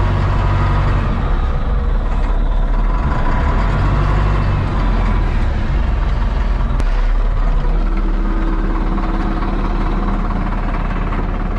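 A motor vehicle's engine running steadily at low revs, with one brief sharp click about seven seconds in.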